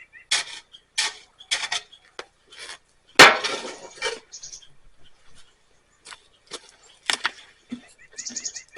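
Knocks and clinks of coffee-making gear being handled and set down, the loudest a sharp knock about three seconds in.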